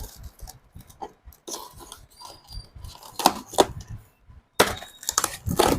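Unboxing noise: packing material being pulled out and handled, irregular rustling and crinkling with a few louder bursts in the second half.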